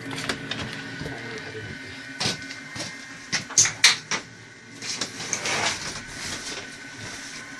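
Steady machine hum with a series of sharp clacks and a brief rushing noise, typical of mechanical processing or packaging equipment at work.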